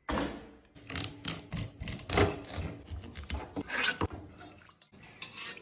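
Irregular clatter and scraping of metal cooking utensils, a dozen or so sharp knocks at uneven spacing, with a brief hiss about four seconds in.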